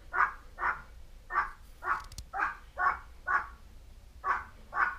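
An animal's short, harsh calls repeated about twice a second, with a brief pause near the end of the series.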